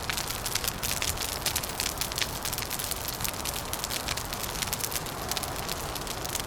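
Wood fire crackling, with many small sharp pops coming irregularly over a steady low rushing noise.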